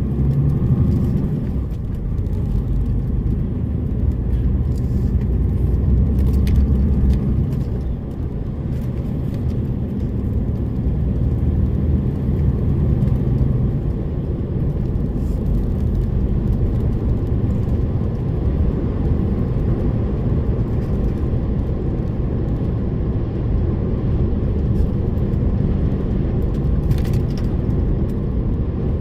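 DAF lorry's diesel engine running under way with a steady low rumble of engine and road noise, swelling and easing slightly in loudness.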